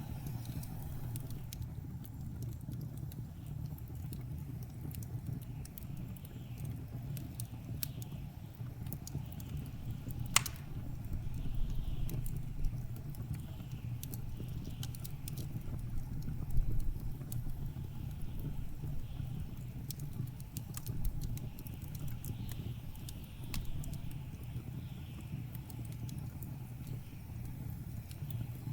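Wood fire crackling in a fireplace, with scattered small snaps and one sharp pop about ten seconds in, over a steady low rumble of blizzard wind.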